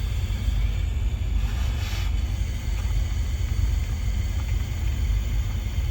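Steady low machinery rumble, with a faint brief hiss about one and a half seconds in.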